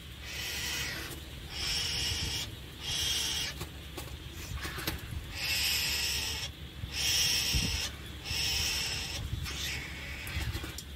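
A bird's harsh, raspy call, repeated about seven times in an even rhythm, each call lasting roughly a second.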